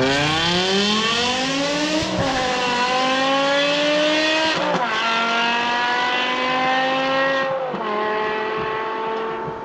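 BMW E60 M5's 5.0-litre V10, with a custom exhaust, accelerating hard from a launch-control start. It revs up and upshifts three times through the SMG gearbox, the pitch dropping at each shift and climbing again. The rear tyres spin on into second gear.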